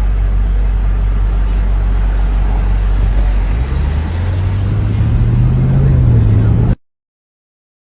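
A motor vehicle running with a steady low rumble. About three and a half seconds in, the note changes and a higher hum rises, then the sound cuts off abruptly near the end.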